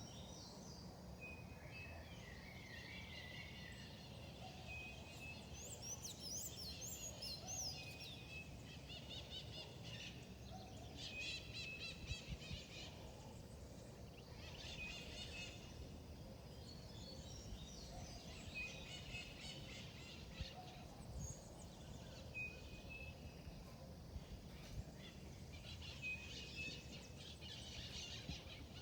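Several birds singing and chirping over a steady low background hiss, with repeated short song phrases throughout and a burst of very high, rapid chirps about six seconds in.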